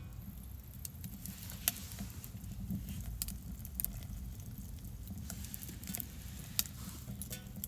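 A steady low rumble with scattered light ticks and taps. The rumble is typical of wind on the microphone.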